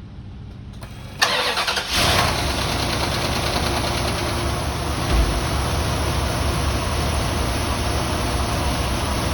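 1989 Cadillac Allante's V8 engine cranked by the starter for under a second, catching about two seconds in and then idling steadily. It is the engine's first start on fresh oil after twelve years without an oil change.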